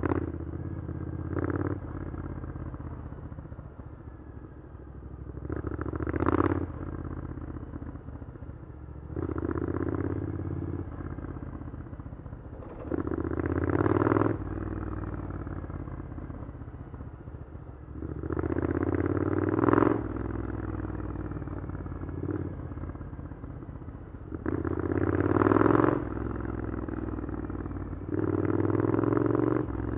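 Triumph Scrambler 900 parallel-twin engine through an Arrow aftermarket exhaust, riding in traffic: the engine rises under throttle about eight times, each pull ending sharply as the revs drop back to a lower running note.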